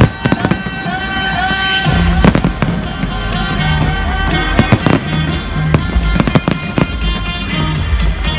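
Fireworks banging and crackling over loud music with a steady bass beat. A sharp bang comes at the start, and dense crackling begins about two seconds in.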